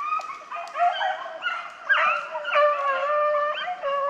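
Deer hounds baying: long drawn-out howls from more than one dog, overlapping at different pitches.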